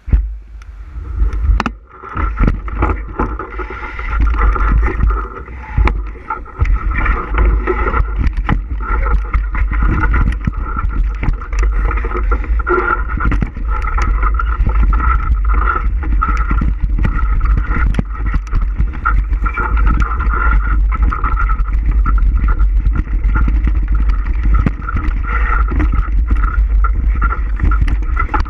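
Bicycle riding along a rough trail: a continuous low rumble from wind on the microphone, with many small clicks and rattles from the bike over the ground.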